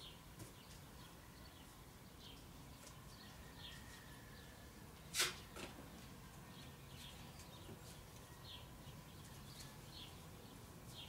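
Faint, scattered chirps of small birds. There is one sharp click or snap about five seconds in.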